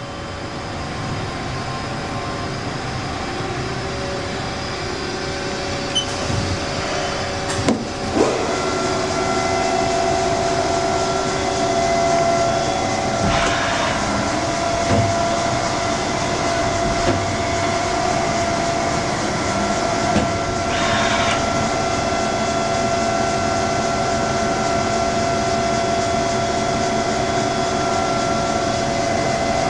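Haas SL-30T CNC lathe running with a steady hum of several constant tones. A few sharp clicks come about six to eight seconds in, and two short hisses come about a third and two-thirds of the way through.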